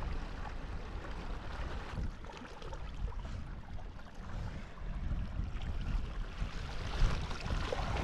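Windsurf board moving slowly over the water in very light wind: a steady swish of water with a low wind rumble on the microphone.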